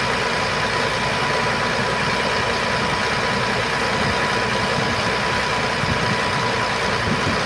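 Heavy truck engine idling steadily, with a thin steady whine above it.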